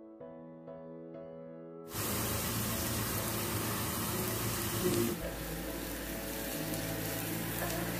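Soft keyboard music, then from about two seconds in a steady sizzle of sliced onions, green chillies and curry leaves frying in a non-stick pan as they are stirred with a wooden spatula.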